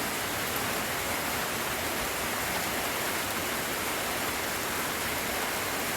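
Steady rain falling, an even hiss without separate drops or other events.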